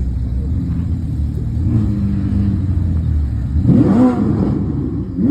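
Ferrari SF90's twin-turbo V8 idling steadily, then blipped once a little over halfway through, the revs rising and dropping back quickly, with the next blip starting right at the end.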